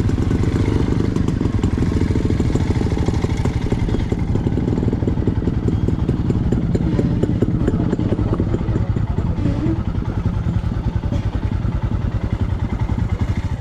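Motorcycle engine running steadily, with a fast, even beat of exhaust pulses.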